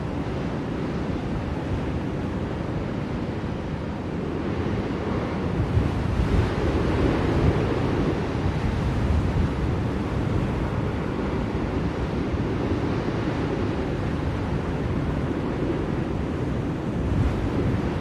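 Blizzard wind blowing in a steady deep rush, swelling a little about six seconds in.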